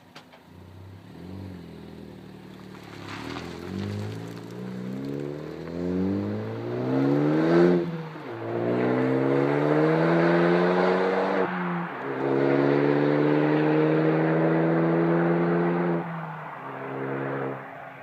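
2013 Ford Focus ST's turbocharged 2.0-litre four-cylinder, exhaust running with no muffler, accelerating hard through the gears: the engine note climbs, drops at an upshift about eight seconds in, climbs again to a second upshift around eleven and a half seconds, holds high, then the throttle is lifted near the end.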